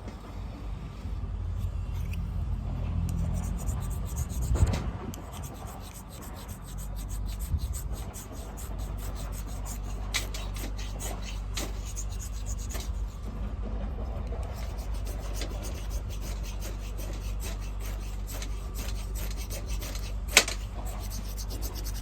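Rasping scrapes and scattered sharp crackles as a campfire is lit with a ferrocerium fire starter, with one louder crack near the end, over a steady low rumble.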